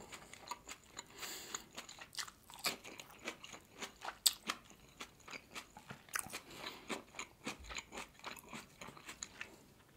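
Close-miked chewing of steamed manti (meat dumplings): a run of soft, wet mouth clicks and smacks, with one sharper click about four seconds in.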